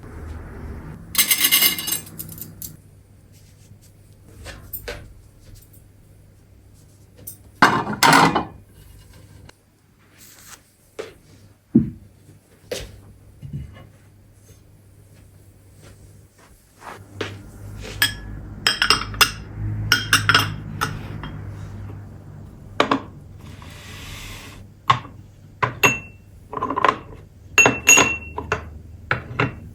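Tableware being handled: plates, glasses and cutlery set down and clinking against one another in a string of separate knocks and clinks, with a couple of longer scraping or rustling sounds near the start and about eight seconds in, over a low steady hum.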